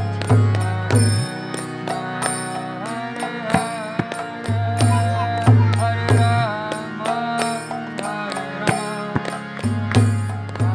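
Kirtan: a voice chanting a devotional melody over a sustained drone, with regular drum strokes and bright metallic cymbal hits keeping the rhythm.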